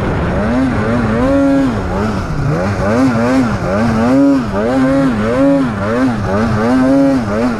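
Polaris 9R two-stroke snowmobile engine running hard, its pitch rising and falling again and again, about once every half to three-quarters of a second, as the throttle is worked through turns in deep powder.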